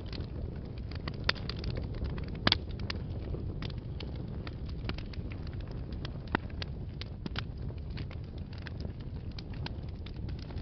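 Wood fire burning in a fireplace: a steady low rumble of flames with irregular crackles and pops from the burning logs, the loudest pop about two and a half seconds in.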